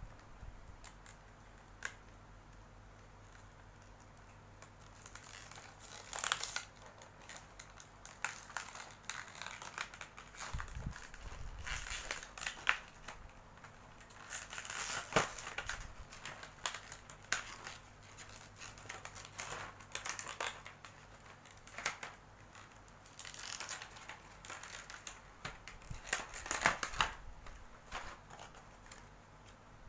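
Plastic packaging being handled and unwrapped: irregular crinkling and rustling in bursts, with small clicks and knocks.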